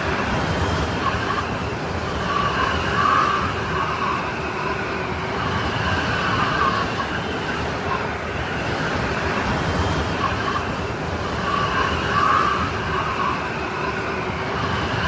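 Strong snowstorm wind blowing steadily with a howling, wavering whistle that swells and fades in gusts.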